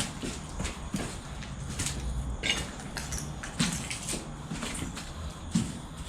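Footsteps with irregular clicks and crunches, roughly one every half second to second, over a steady low rumble.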